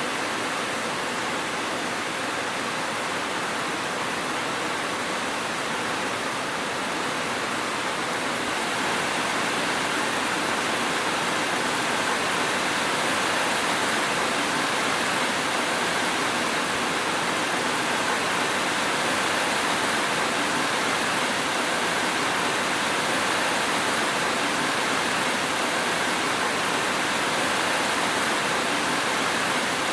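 Steady, even rain falling, a constant hiss with no distinct drops or thunder, growing slightly louder about ten seconds in.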